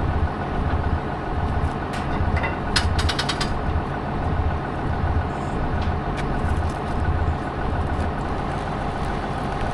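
A farm machine's engine running steadily, with a low throb pulsing a little under twice a second that evens out near the end. A few sharp metallic clicks come about two to three seconds in.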